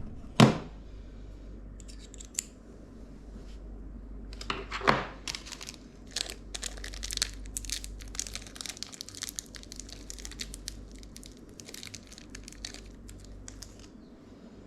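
Packaging being torn and crinkled by hand, with a few sharp thumps near the start and one about five seconds in, then a long stretch of crackling and rustling.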